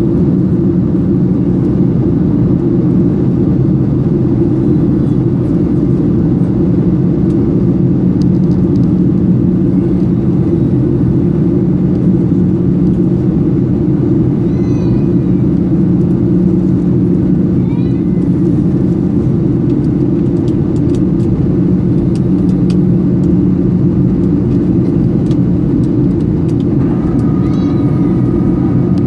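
Steady cabin drone inside a Boeing 737-800 in flight: the CFM56 turbofans and airflow over the fuselage heard from a window seat, an even low rumble that doesn't change. A few faint high squeaks come through in the middle, and a faint steady higher tone joins near the end.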